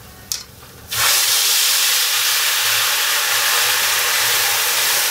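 Onions tipped into hot cooking oil, starting to sizzle suddenly about a second in and frying with a steady hiss.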